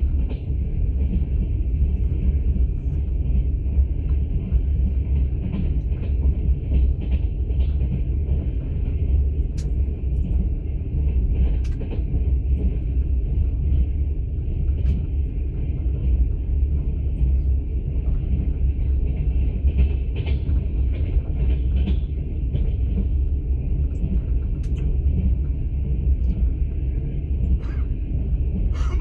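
Steady low rumble of a moving passenger train heard from inside an open-plan sleeper carriage, with a few faint clicks and knocks scattered through it.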